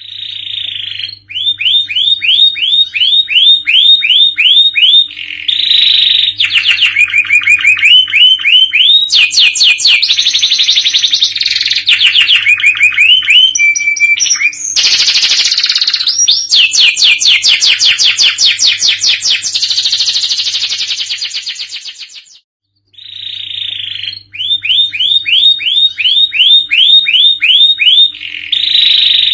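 Domestic canary singing loudly and continuously: fast runs of repeated trill notes and rolling phrases, with a short break about 22 seconds in before the song starts again. A faint steady low hum runs underneath.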